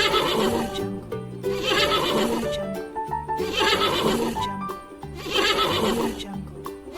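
Horse neighing several times, a whinny about every two seconds, over background music.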